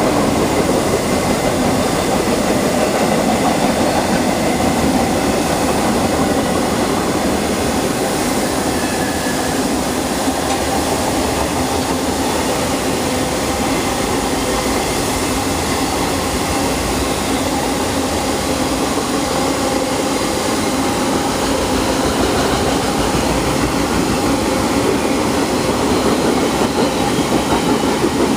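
Long freight train rolling past at steady speed, its cars' wheels rumbling and clattering on the rails with a faint squeal.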